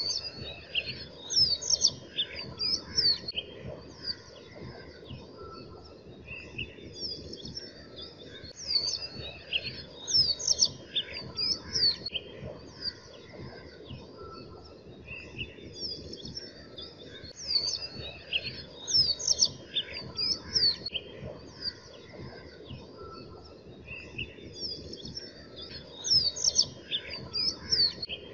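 Birds chirping in clusters of quick, high, sweeping notes that recur about every eight to nine seconds, over a steady low rushing noise.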